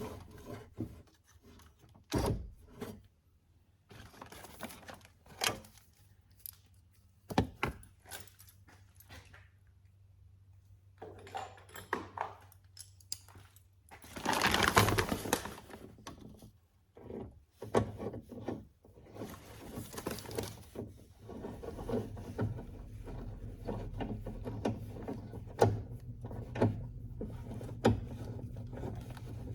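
Scattered clicks, knocks and rubbing from hands and tools working on a car door's window mechanism, with a louder rasping scrape about fifteen seconds in and a steady low hum under the knocks in the second half.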